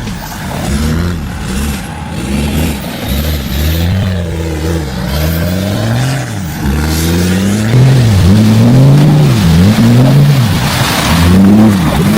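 A vehicle engine revving up and down again and again under load, its pitch rising and falling every second or two, with a hiss near the end.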